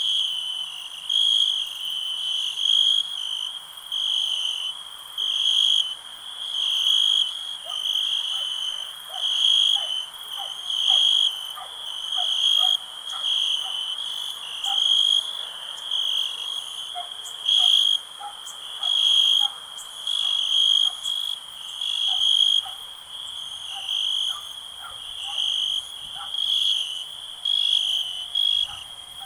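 Crickets chirping, a high trill pulsing in a steady rhythm about once a second, with fainter, lower-pitched short calls through the middle.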